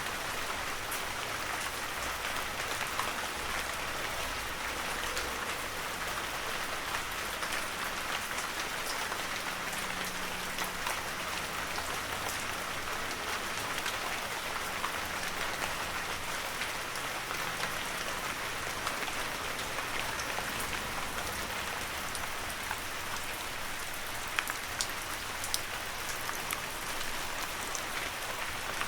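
Heavy rain falling steadily as an even hiss, with scattered sharper drop ticks.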